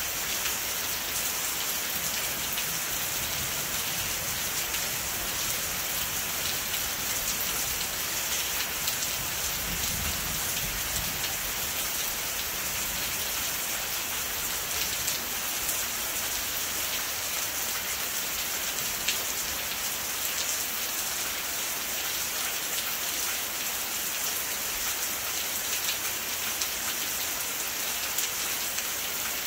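Steady heavy rain falling, with individual drops ticking through the hiss. A faint low rumble swells briefly about ten seconds in.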